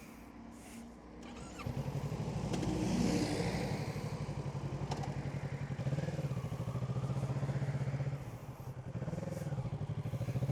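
Kawasaki Z650 parallel-twin motorcycle engine running under way. It gets louder and steadier about two seconds in, eases off briefly near the end, then picks up again.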